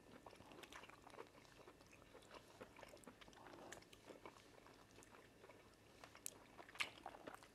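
Faint eating sounds of people eating fufu and chicken with their hands: soft, irregular chewing and mouth clicks, with a couple of sharper clicks near the end.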